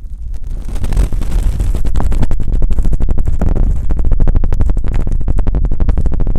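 Fingers rubbing and massaging a microphone's ear with lotion or milk. The result is a loud, rapid, wet crackling and scratching right on the mic, with a heavy rumble underneath.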